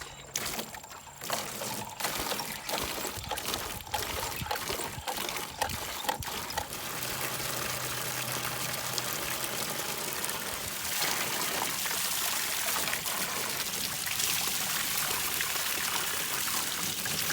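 Water splashing and trickling, with scattered splashes at first, then a steadier, louder rush of water from about ten seconds in.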